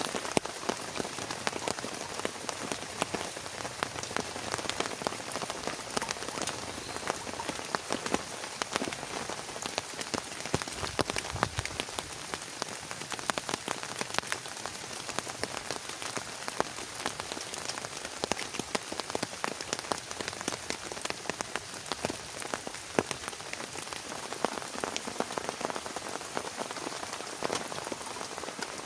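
Heavy rain falling steadily, a dense hiss dotted with many sharp drop hits on a nearby surface.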